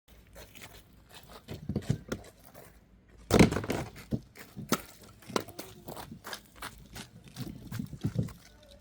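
Irregular knocks and clicks, with one loud thump about three and a half seconds in.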